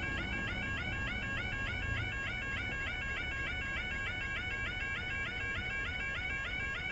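Level crossing warning alarm sounding continuously: an electronic yodel warbling in a rapid repeating two-tone pattern, left running because the crossing has failed with a barrier stuck down.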